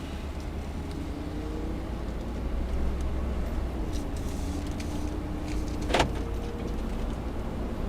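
Steady low rumble of a car's engine and road noise heard from inside the cabin while driving slowly. A single sharp click sounds about six seconds in.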